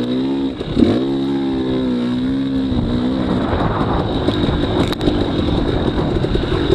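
Dirt bike engine being ridden: its pitch drops briefly just under a second in as the throttle comes off, climbs back and holds steady, then turns rougher and choppier for the last few seconds.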